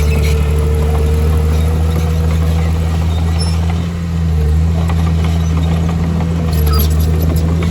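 Heavy diesel engine of earthmoving machinery running steadily, with a short dip in level about four seconds in.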